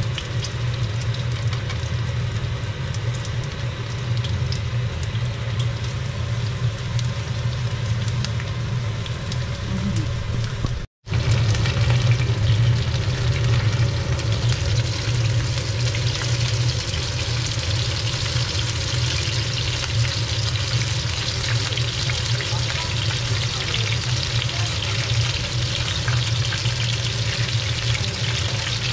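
Whole prawns sizzling as they fry in hot oil in a pan and are turned with chopsticks, over a steady low hum. About 11 seconds in the sound breaks off for an instant, and after that the sizzle is louder and brighter.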